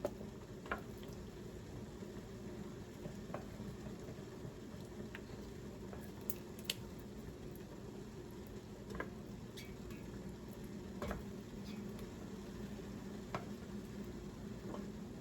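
Scattered light clinks and scrapes of a spoon against a pot and bowl as barbecue meatballs are spooned out, over the steady low hum and faint bubbling of pots simmering on the stove.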